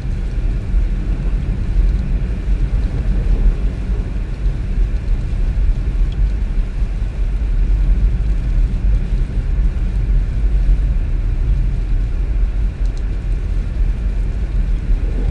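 Car driving along a road: a steady, unbroken low rumble of road and engine noise.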